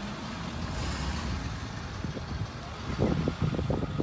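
Cars and trucks of a vehicle caravan going past, with a steady low engine rumble and tyre noise. A brief rise in hiss comes about a second in, and a run of low thumps starts about three seconds in.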